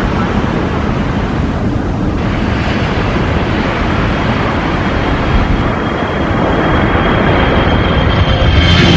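Jet aircraft engine running, a steady rushing noise that grows louder, with a high whine coming in over the last few seconds.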